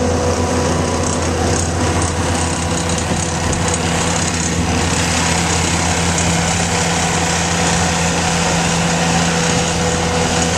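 Diesel engine of heavy equipment running steadily at constant speed, with a further steady tone joining about halfway through.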